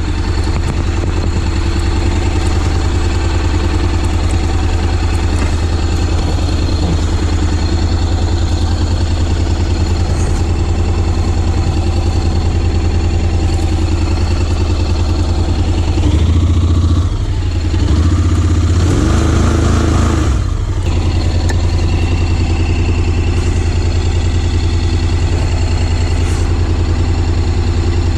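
Honda X-ADV 750's parallel-twin engine running at a steady, even note, picking up with throttle twice, about sixteen and nineteen seconds in, before settling back.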